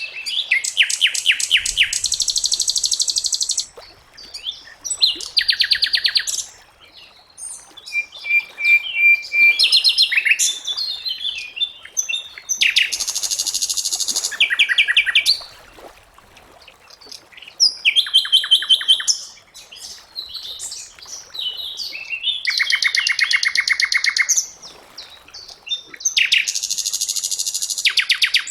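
Sikatan londo, a flycatcher kept as a songbird, singing: bursts of rapid, high, chattering trills a second or two long, broken by short pauses.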